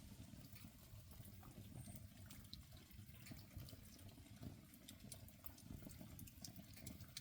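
Faint campfire of soaking-wet wood burning, with a low steady rumble and scattered small pops and crackles throughout.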